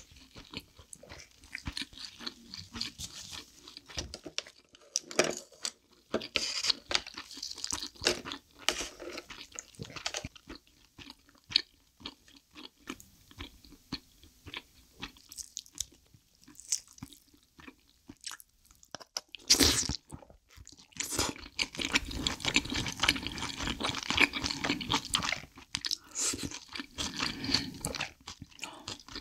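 Close-miked chewing and wet mouth sounds of someone eating soy-sauce-marinated shellfish and rice: a stream of small sharp clicks and squelches, with the loudest burst about two-thirds of the way through and denser chewing near the end.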